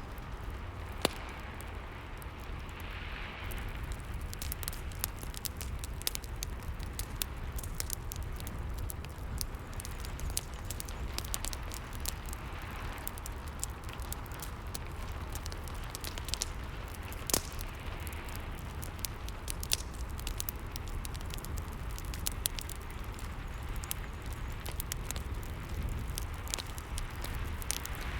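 Fireplace ambience: a wood fire crackling with frequent sharp pops over a steady low rumble, with rain beneath it. Two pops, about a second in and just past the middle, stand out louder.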